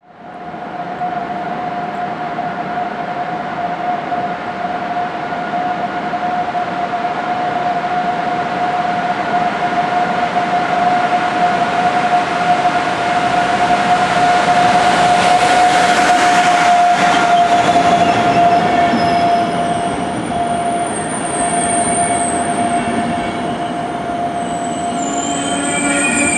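Passenger train hauled by an EU44 (Siemens Taurus) electric locomotive running into a station. A steady high tone sounds throughout under a rising rumble, which is loudest as the locomotive passes. From about twenty seconds in, high-pitched squealing of wheels and brakes comes in as the carriages roll past slowing down.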